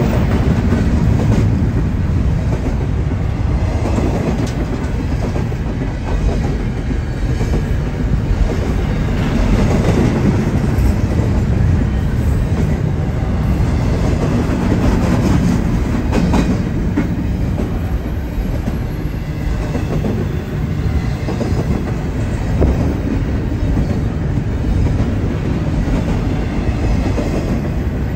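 Cars of a BNSF double-stack container freight train rolling past: a steady rumble of steel wheels on the rails, with irregular clicks and clanks as the wheels pass over the track.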